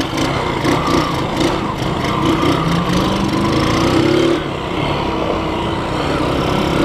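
Motorcycle engine running and revving; its pitch climbs for a couple of seconds in the middle, then drops back.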